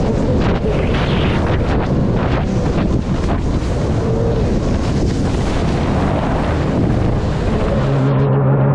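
Sea-Doo jet ski running at speed over the water, its engine and spray buried under heavy wind buffeting the microphone.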